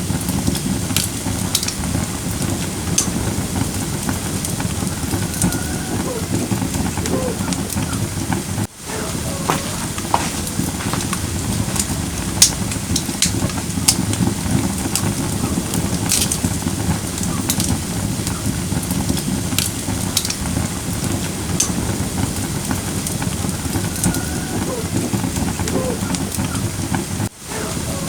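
Firewood burning in a fire pit: a steady low rush of flames with scattered sharp crackles and pops. The sound briefly drops away twice, about a third of the way in and near the end.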